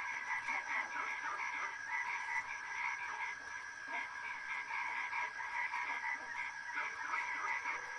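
A dense chorus of small calling animals: many fast, pulsing trills overlapping at a few steady pitches, keeping an even level.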